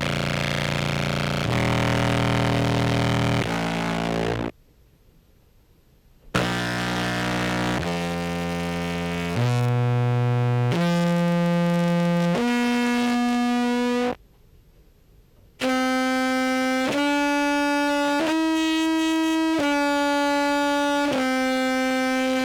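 Contrabass clarinet played through a fuzz and effects pedal chain, sounding held, distorted notes. A low, thick phrase breaks off; after a short gap comes a run of held notes stepping upward, then after another gap a few higher held notes.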